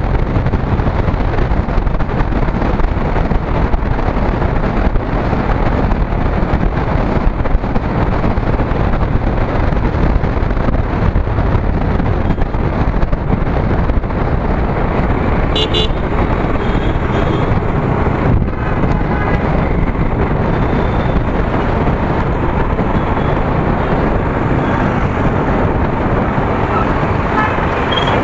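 Steady wind rush and road noise from a motorcycle ride in traffic, loud on the microphone. A short horn toot sounds a little past halfway.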